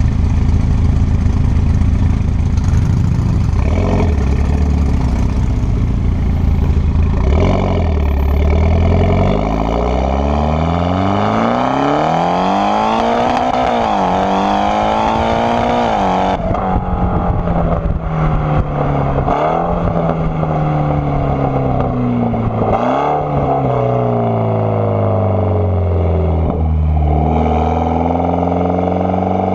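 Mitsubishi Lancer Evolution X turbocharged four-cylinder running through an AMS widemouth downpipe, cat and cat-back exhaust while the car is driven. A low, steady drone for the first several seconds, then the note climbs under acceleration, breaking off in quick drops at each gear change. It eases down and starts climbing again near the end.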